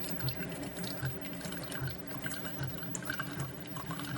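Single-serve pod coffee maker brewing a K-cup, its pump pulsing low and regularly, a little more than once a second, while hot liquid trickles and drips into the mug.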